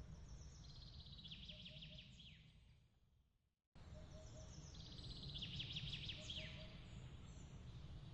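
A songbird's fast trilled song, heard twice about four seconds apart, over a steady low rumble, with short soft triple chirps in between. Just before halfway the sound fades to silence and then cuts back in abruptly, as at the seam of a loop.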